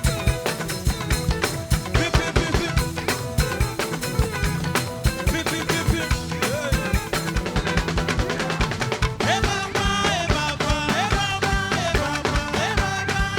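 Live band music with a busy, steady drum-kit beat. A lead melody line comes in about nine seconds in.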